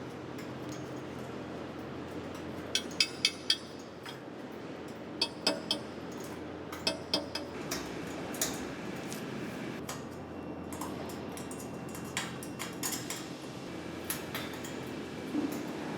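Cut metal fire-pit parts clinking against each other and on metal as they are handled, in small clusters of sharp clinks over a steady workshop hum.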